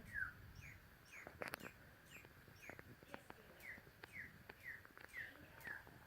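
Faint, evenly repeated bird chirps, each a short falling note, about two a second, with a few faint clicks between them.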